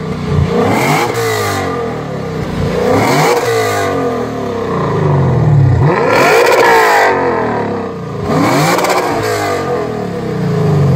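Lexus RC F's 5.0-litre naturally aspirated V8 with a modified exhaust, revved four times while standing, each rev climbing sharply and falling back.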